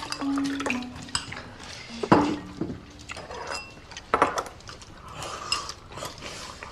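Chopsticks and utensils clinking against bowls and dishes while people eat, in scattered light clicks.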